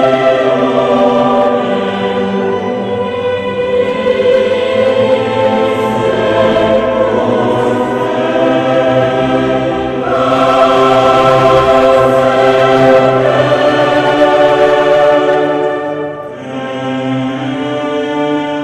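Choral music: voices holding sustained chords that change about ten seconds in and again about sixteen seconds in.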